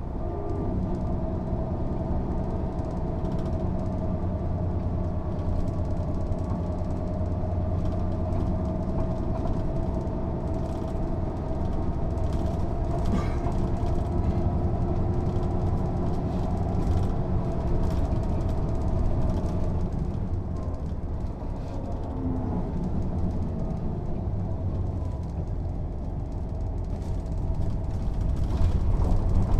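Mercedes-Benz O 407 bus under way, its diesel engine running with a steady drone and a whine from the drivetrain. The whine sinks a little and the sound eases off about twenty seconds in, then grows louder again near the end as the bus pulls harder.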